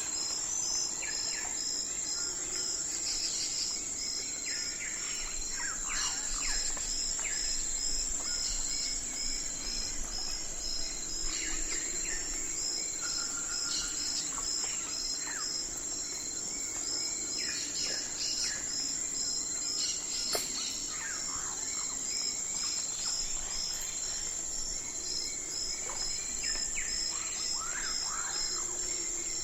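Night forest ambience: a steady, high insect drone with crickets chirping in regular pulses about twice a second. Short, falling calls from birds come and go throughout.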